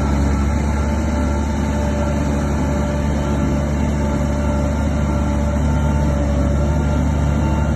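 Heavy diesel engine of earthmoving equipment running steadily at constant speed, a deep rumble with a steady hum over it.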